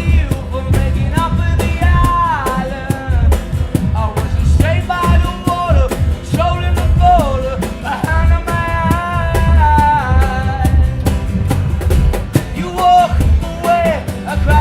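Rock song with a sung lead vocal over guitar and a steady drum beat.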